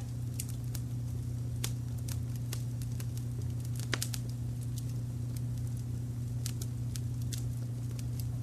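Fireplace fire crackling, with scattered sharp pops, the loudest about four seconds in, over a steady low rumble of brown noise.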